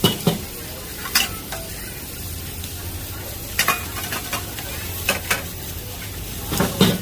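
Seafood pad thai stir-frying in a pan: a steady sizzle, with the metal turner clanking and scraping against the pan now and then, the loudest clanks near the end.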